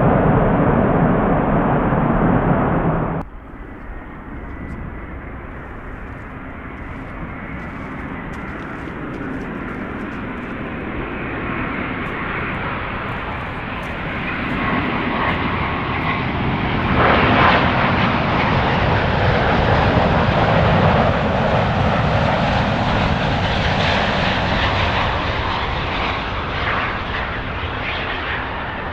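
Jet airliner landing: loud engine noise cuts off abruptly about three seconds in, then a new jet's roar builds steadily, is loudest in the latter half, and eases slightly near the end.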